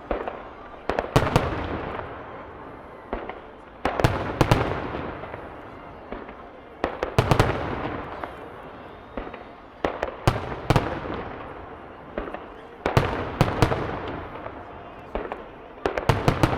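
Aerial firework shells bursting in quick groups of two or three sharp bangs, a group about every three seconds. Each group is followed by a rolling echo that fades away.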